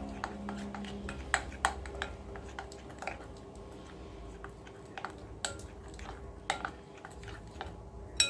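A spoon clinking and tapping against a bowl, a dozen or so irregular light strikes, while spices are added and stirred into the batter. Soft background music runs faintly underneath.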